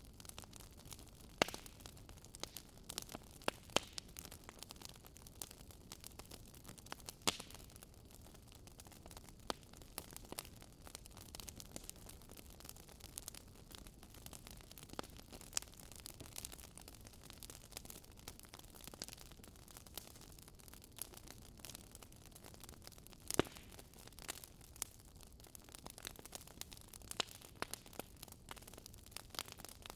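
Wood fire crackling softly in a fireplace: irregular small pops and snaps over a low hiss, with a sharper pop about a second and a half in and another past the middle.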